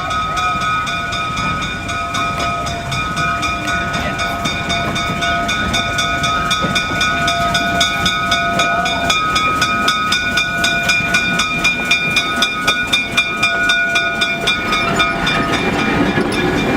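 South Shore 803, a GE "Little Joe" electric locomotive, pulling a train slowly into a station. It makes several steady high-pitched tones over a running rumble, with a fast, even clicking, about five a second.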